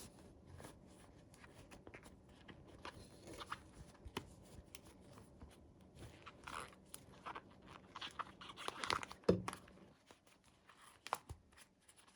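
Plastic packaging crinkling and small plastic toy pieces clicking as they are handled. The rustles and clicks come irregularly, with a louder cluster about nine seconds in.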